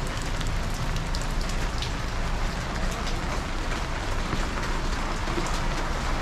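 Steady rain falling, with many drops pattering, some close by, and a low rumble underneath.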